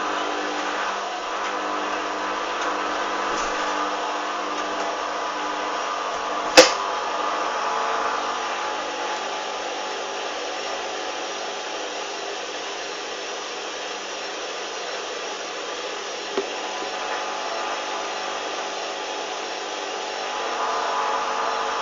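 Hoover washing machine running, its motor giving a steady whine, with one sharp click about six and a half seconds in and a fainter one near sixteen seconds.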